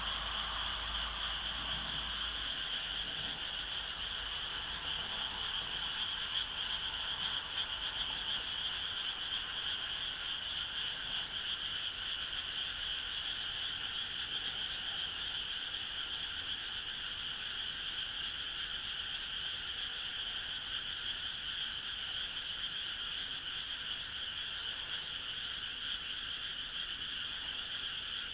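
A dense frog chorus: many frogs calling together in a steady, unbroken high-pitched trill with no siren in it.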